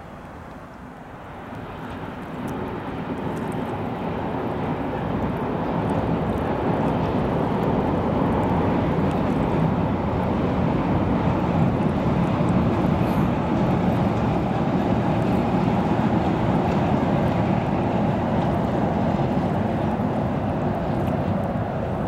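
Hamburg S-Bahn electric multiple unit crossing a steel truss railway bridge: a steady rumble that swells over the first few seconds, holds loud, and eases slightly near the end.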